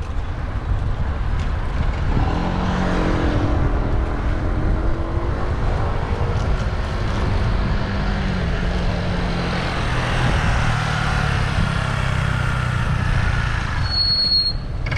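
Wind and road rumble on a bicycle-mounted camera in city traffic, with a motor vehicle's engine running close by and shifting in pitch. A brief high-pitched tone comes near the end.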